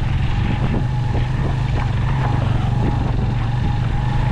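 Motorcycle engine running steadily while riding a rough off-road track, with scattered short knocks and rattles.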